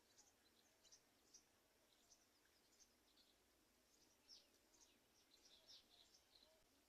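Faint, high bird chirps, short and scattered at several a second, some falling in pitch, over a faint steady hiss.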